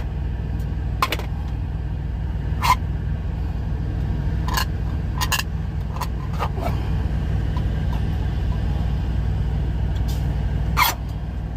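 Low steady rumble of an idling truck, with a handful of short sharp clicks and knocks from items being handled in the cab.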